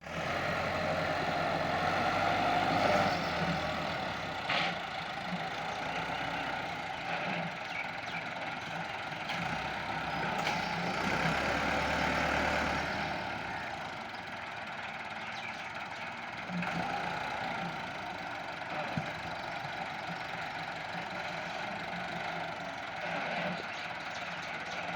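Tractor engine running steadily, its level rising and falling, louder in the first half and a little quieter after that.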